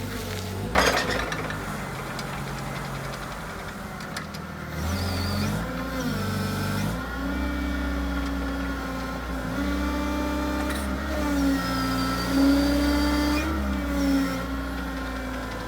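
STILL RX 70-25 forklift truck's engine running and being revved, its pitch stepping up and down several times, with a whine on top. A sharp knock sounds about a second in.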